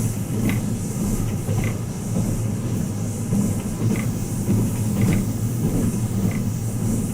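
The Twilight Express Mizukaze running at speed, heard from inside a passenger cabin: a steady low rumble from the wheels and running gear, with a few faint short clicks at irregular intervals.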